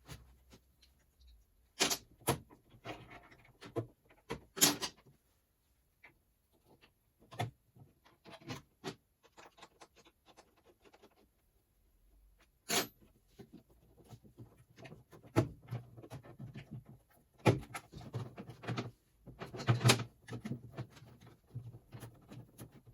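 Irregular clicks and knocks with rustling as parts and tools are handled while fitting plastic line holders to a tube chassis; the sharpest knocks come about two seconds in, near five seconds, near thirteen seconds and close to the end.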